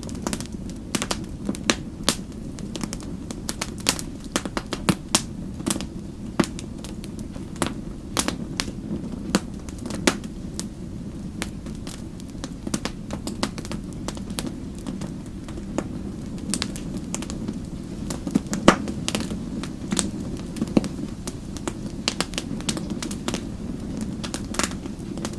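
Wood fire crackling: a steady low rumble of burning with frequent sharp, irregular pops and snaps, the loudest pop about two-thirds of the way through.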